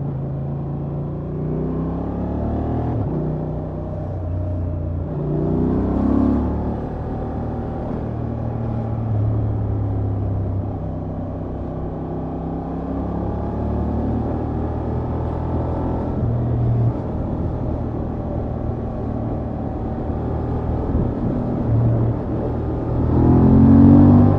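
Honda XL750 Transalp's 755 cc parallel-twin engine running through its stock exhaust while riding. The engine pitch rises as it accelerates about five seconds in and again near the end, where it is loudest.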